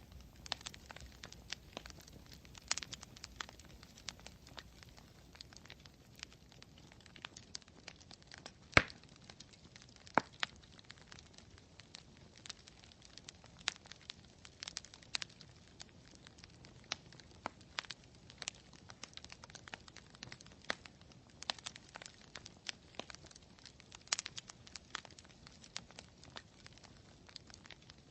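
Campfire wood burning, with irregular crackles and sharp pops over a faint steady hiss. One pop, nearly nine seconds in, is much louder than the rest.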